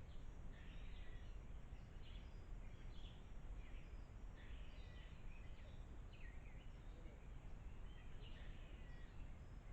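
Birds chirping and calling in short, repeated notes over a steady low background rumble.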